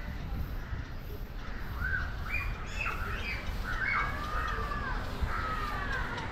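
Birds calling: a string of short calls that glide up and down in pitch, starting about two seconds in.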